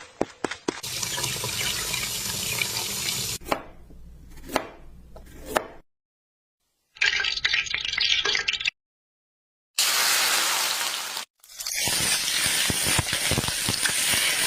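Kitchen cooking sounds in separate clips: a few quick chopping knocks, then several stretches of steady hiss like running water or oil sizzling, each cutting off abruptly into silence.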